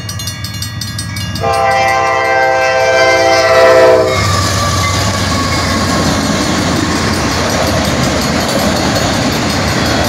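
Norfolk Southern freight train at a grade crossing: the locomotive's air horn sounds one long chord about a second and a half in, lasting about two and a half seconds. Then comes the steady rumble and clickety-clack of autorack freight cars rolling past.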